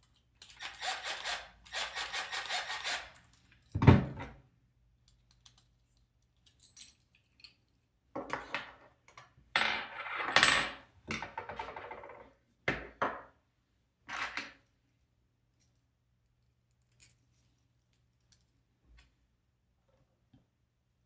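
Small screws, nuts and plastic robot parts being handled while link rods are screwed onto servo motors. There are scraping, rattling bursts, then a sharp knock about four seconds in, and another run of scrapes and clicks before it goes mostly quiet with a few faint ticks.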